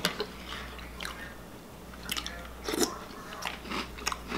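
A person chewing a mouthful of cereal, with several short sharp clicks scattered through it.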